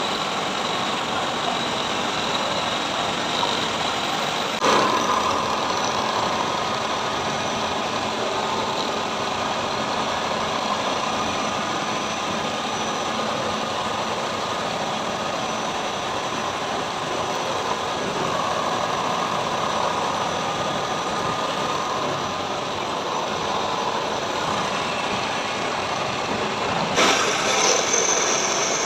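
Heavy machine tool running steadily while machining metal: a continuous mechanical noise with a brief knock about five seconds in and a louder, brighter stretch near the end.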